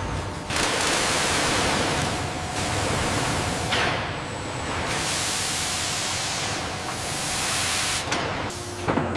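Loud, steady hissing noise that shifts in character every few seconds.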